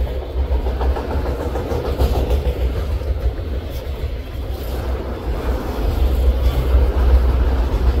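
Autorack freight cars rolling past, steel wheels running on the rails with a steady low rumble and occasional faint clicks.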